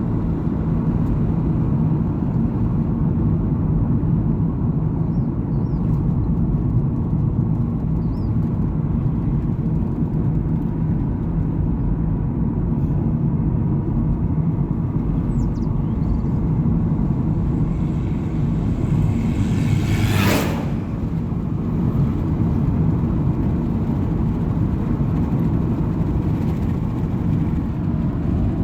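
Steady low rumble of a vehicle on the move, with a brief, sharp whoosh about twenty seconds in.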